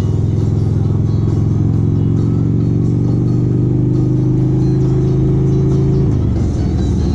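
Motorcycle engine pulling in gear, its pitch climbing slowly as it accelerates, then dropping suddenly about six seconds in as the throttle is eased or it shifts up.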